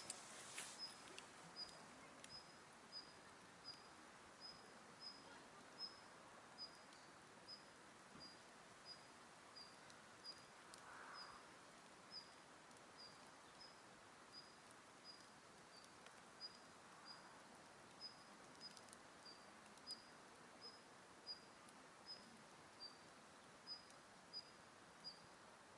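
A short, high chirp repeating evenly about one and a half times a second, from a small animal, over a faint steady outdoor hiss. A campfire crackles a few times, in a brief cluster right at the start and singly later.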